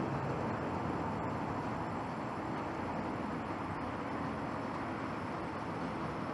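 Jet engine noise from a departing Boeing 737 MAX 8 and its CFM LEAP-1B turbofans: a steady rumbling roar that fades slightly.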